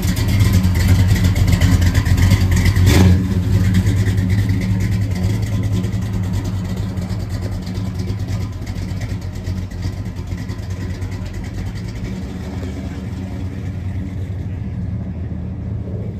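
A 1955 Chevrolet Bel Air's engine running with a steady low rumble close by, with a short sharp sound about three seconds in, then fading gradually as the car drives away.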